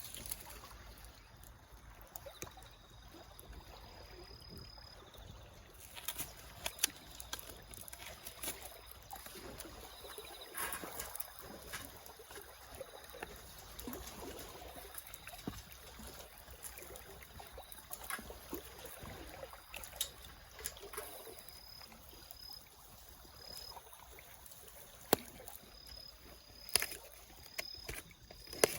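Wood fire in a fire pit made from a pail can, crackling, with scattered sharp pops over a steady soft hiss.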